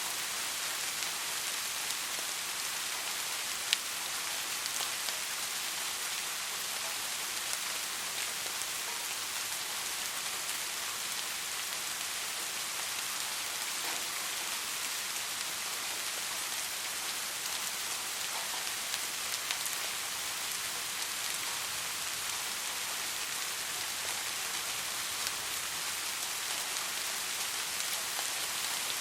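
Steady soft rain falling, an even hiss with a few distinct drops ticking, one sharper drop about four seconds in.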